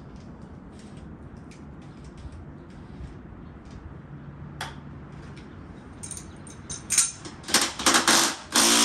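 Cordless impact wrench hammering in several short bursts, starting about two-thirds of the way in, on the stuck front axle bolt of a Honda CRF80 motorcycle. Before the bursts there are only a few faint clicks of tool handling.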